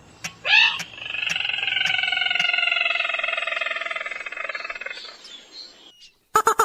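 Recorded call of a crake (sintar / mandar padi) played as a trapping lure: a short rising note, then one long call lasting about four seconds that slowly falls in pitch, with faint ticks about twice a second under its start. Near the end a rapid series of sharp notes begins.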